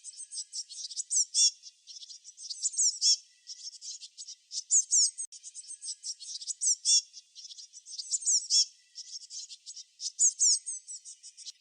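Songbirds chirping and singing in high, quick notes, with a louder phrase of rapid falling notes recurring about every two seconds.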